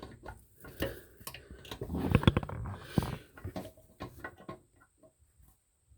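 Needle-nose pliers tightening the tank-to-bowl bolt nuts on a toilet: a run of small metallic clicks and knocks, busiest about two seconds in, then thinning out to a few light ticks.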